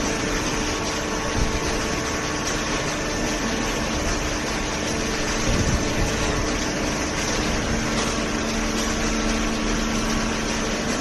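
Hydraulic pump and motor of a vertical cardboard baler running with a steady hum; its tone steps lower about eight seconds in.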